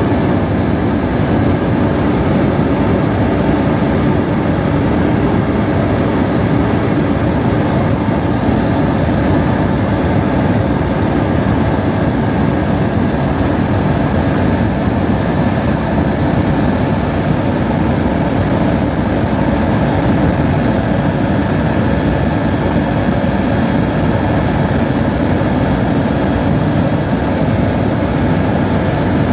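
Helicopter in flight: a loud, steady engine and rotor noise that holds unchanged throughout.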